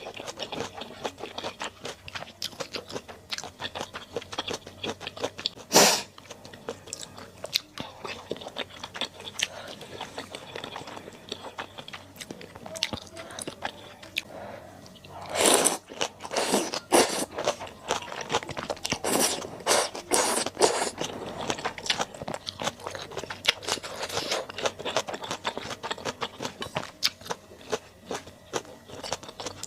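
Close-miked eating of malatang: steady wet chewing and biting with many small clicks. A louder noisy burst comes about six seconds in, and a run of similar bursts falls around the middle of the stretch.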